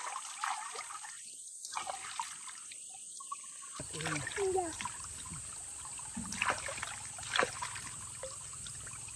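Water trickling and splashing as sandals are rinsed in it, with a few sharper splashes in the second half.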